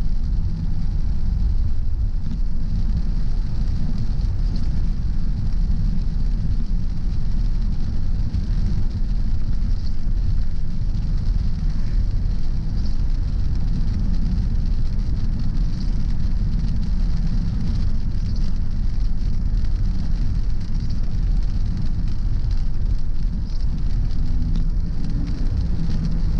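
Car driving on a wet road in the rain: a steady low rumble of road and tyre noise with a hiss of rain and spray over it, and faint light ticks every two to three seconds.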